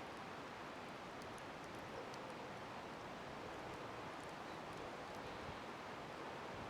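Wood bonfire burning: a steady faint rushing hiss with a few small, scattered crackles and pops.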